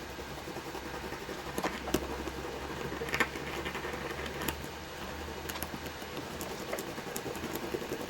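Small hand file scraping the metal leads of a laptop DC power jack in short, irregular strokes, roughening them so solder will stick.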